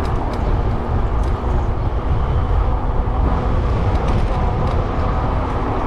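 Steady rumbling ride noise from a fat-tire e-bike under way: wind across the microphone and tyres rolling, with no single event standing out.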